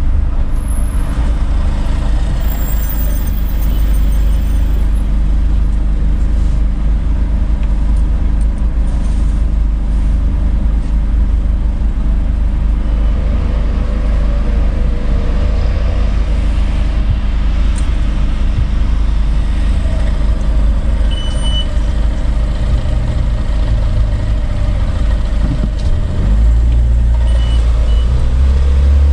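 Steady low rumble of a car's engine at idle with light street traffic around it, the car waiting at a red light; about three seconds before the end the rumble grows louder as the car pulls away.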